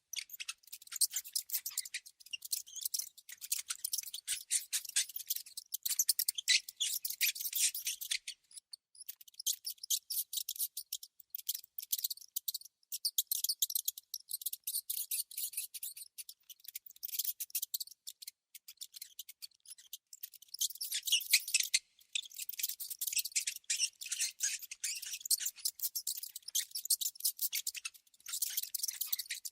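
Small rodents making rapid, high-pitched clicking and squeaking, coming in runs of a few seconds with short breaks.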